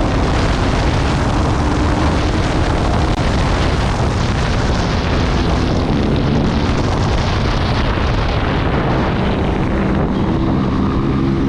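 KTM Duke 390 single-cylinder motorcycle riding at speed, heavy wind rushing over the rider's microphone, with the engine's note coming through more clearly near the end.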